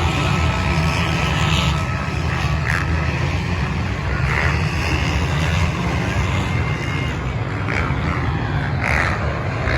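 Golf cart driving: a steady low rumble of motor and tyres, with a few faint short sounds over it.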